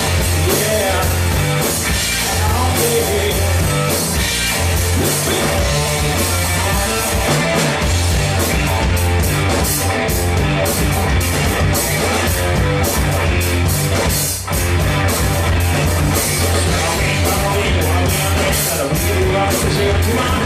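Rock music: a band playing electric guitar, bass and drum kit, with a brief drop about two-thirds of the way through.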